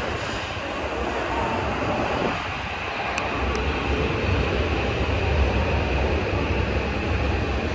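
Subway train running at an underground station platform, a steady rush of rail noise with a low rumble that builds about halfway through.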